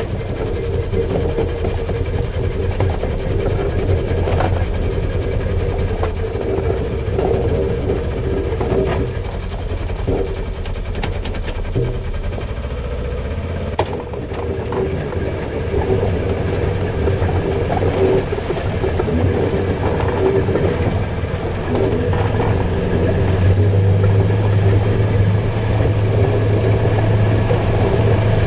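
Polaris Ranger 900 XP side-by-side being driven, engine running steadily with rattles and knocks from the chassis. It is a test drive to check how the front differential sounds on fresh fluid.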